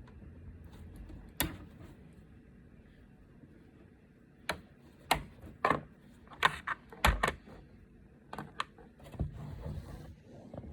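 A series of sharp clicks and knocks, about a dozen in all, most of them bunched together from about four to seven and a half seconds in, over a low room hum.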